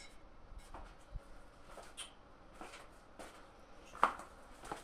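Scattered light knocks and clicks, about half a dozen, the loudest one about four seconds in.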